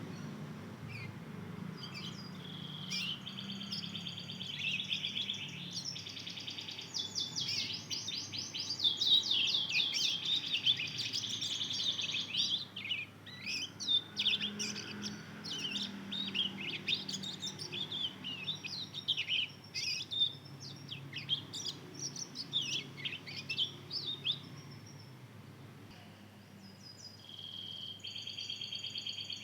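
Young mozken, a hybrid of a Mozambique canary and a domestic canary about two months old, twittering a rambling practice song as it learns to sing: quick chirps and trills. It falls quiet briefly near the end, then starts again.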